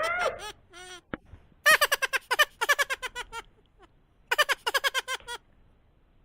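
A child giggling in quick, high-pitched bursts, three bouts of rapid laughter with short gaps between them.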